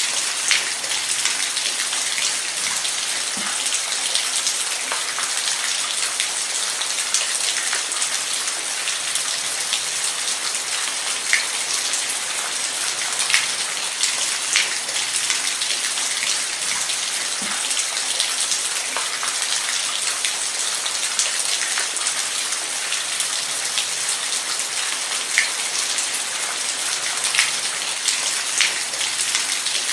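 Steady rain falling, a dense even hiss with scattered individual drops striking close by.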